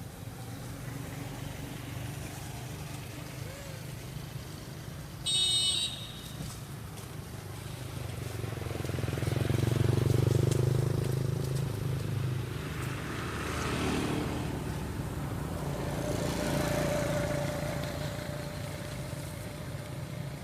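Engines of passing road vehicles: a steady low rumble that swells and fades twice. About five seconds in, a short high-pitched tone sounds once.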